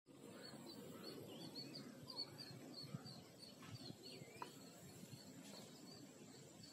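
Faint birdsong: a small bird repeating a short high chirp about three times a second, with a few other birds calling now and then, over a faint steady high whine and a low rumble.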